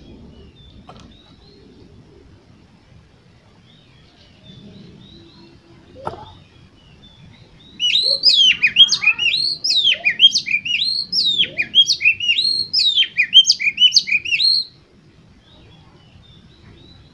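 Oriental magpie-robin (kacer) singing a loud burst of rapid whistled notes that sweep up and down, starting about eight seconds in and lasting about seven seconds.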